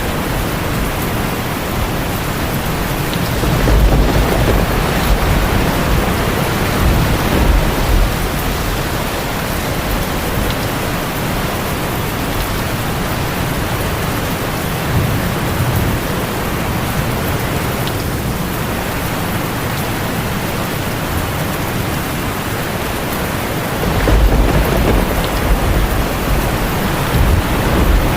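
Heavy rain falling on a tin roof, a steady hiss, with low rolls of thunder rumbling about four seconds in and again near the end.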